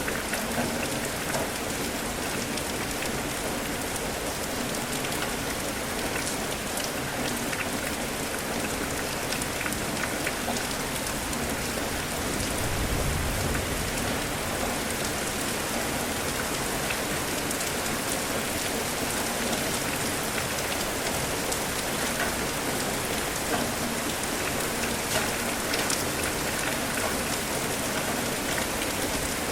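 Steady rain falling, with a dense patter of individual drops. A brief low rumble comes about halfway through.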